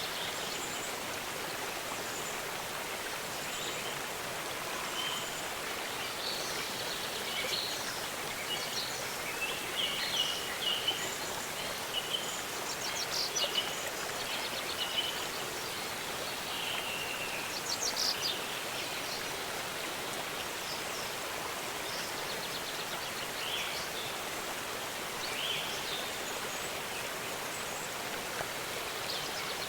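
Steady rush of a waterfall, with small songbirds chirping over it and giving a few quick trills, busiest through the middle of the stretch and sparser near the end.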